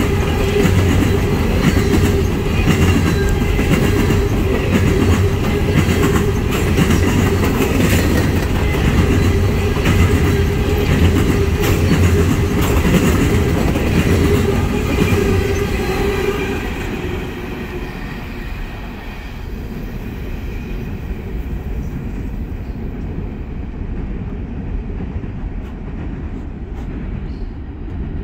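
Coal cars of a freight train rolling past close by, wheels clicking over the rail joints with a steady tone above the rolling noise. A little past halfway the last cars go by and the sound drops to a quieter, duller rumble as the train moves away.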